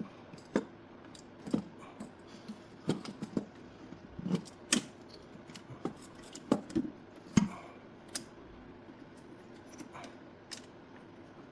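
Irregular metallic knocks, clinks and clunks as an intake manifold is worked free and manoeuvred out of an engine bay, with two louder clunks about halfway through.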